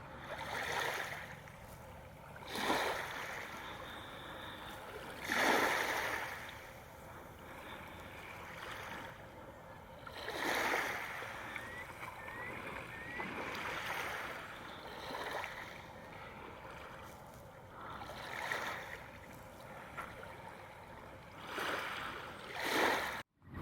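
Water swishing and splashing in irregular surges every few seconds, with three short rising bird chirps about twelve seconds in.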